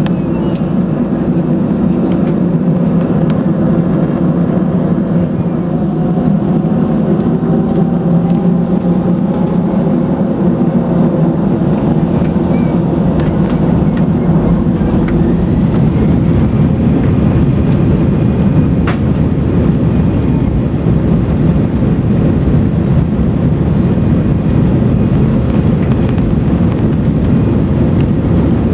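Steady engine and airflow noise of an Airbus A319 jet airliner, heard inside the cabin from a window seat. A few steady tones in the first half give way to a broader low rumble after about halfway.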